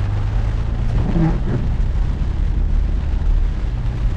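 Rain-swollen waterfall in full flood: a loud, steady roar of falling water, heavy in deep rumble.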